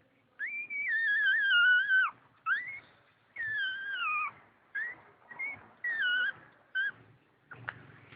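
Newborn cocker spaniel puppy crying: about seven high-pitched cries, the first and third long and sliding down in pitch, the rest short.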